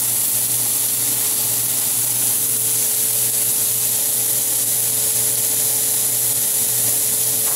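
Sliced mushrooms, onions and garlic sizzling steadily in clarified butter in a hot steel pan, with a faint low hum underneath.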